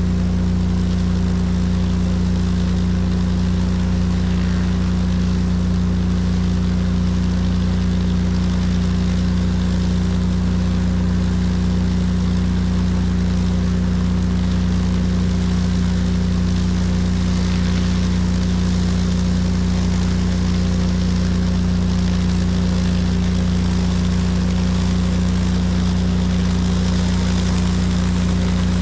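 Pressure washer's engine running steadily under load, a constant low hum with a hiss over it.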